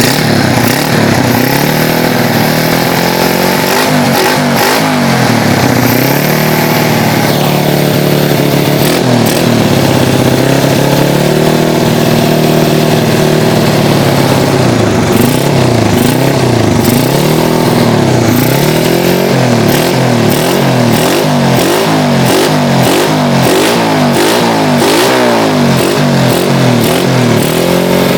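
Bored-up 150cc single-cylinder four-stroke engine of a Yamaha Vega-R drag bike being revved again and again while it is tuned to stop it coughing. It rises and falls in slower swells at first, then in quick throttle blips, one after another, through the last ten seconds.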